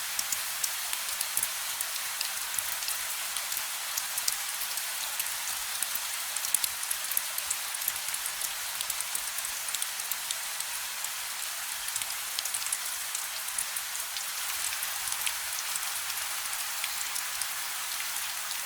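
Steady gentle rain: an even hiss of rainfall with many individual drops ticking sharply on a surface.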